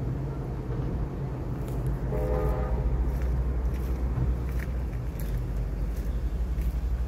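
A horn sounds once, briefly, about two seconds in, over a steady low engine rumble.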